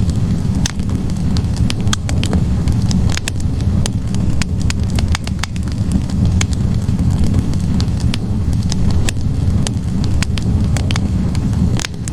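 Wood fire burning in a fireplace: a steady low roar of flames with frequent irregular sharp crackles and pops from the logs.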